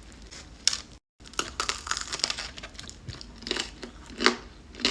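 Crunching and cracking of a crème brûlée donut's caramelized sugar top as it is bitten and chewed: irregular crackles, a few louder ones near the end.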